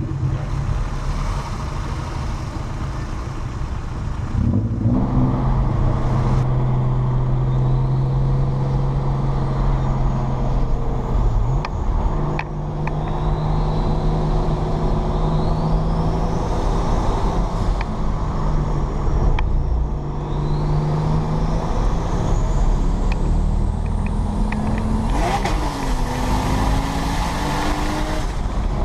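Nissan R33 Skyline engine heard while driving, a steady drone that changes pitch several times as the car moves through the gears. Faint rising whistles sound higher up.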